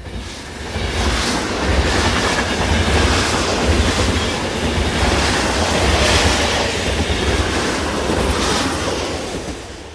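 A train rumbling and clattering along the rails. It fades in at the start and fades out near the end.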